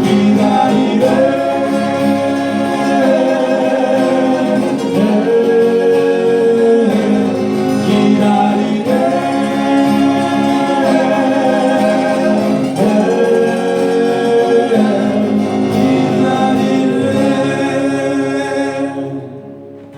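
Singing voices with acoustic guitar accompaniment, holding long sustained notes; the song fades out near the end.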